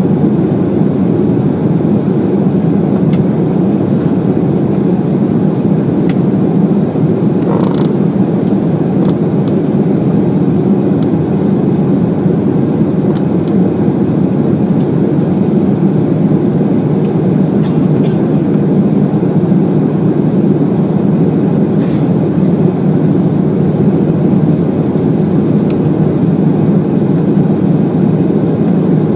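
Steady, loud cabin noise inside an Embraer E190 in flight: the even rumble of its two GE CF34-10E turbofan engines and the airflow over the fuselage. A few faint clicks sound through it.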